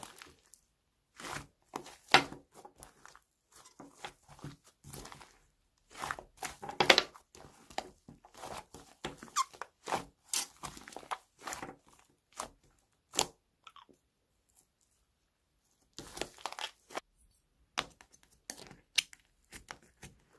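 Irregular tearing, crunching and crinkling, like paper, tape or plastic packaging being handled, in short uneven bursts with a quiet pause about two-thirds of the way through.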